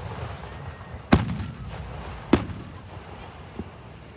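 Aerial firework shells bursting overhead: two loud bangs a little over a second apart, each followed by a low rumbling tail, then a fainter bang near the end.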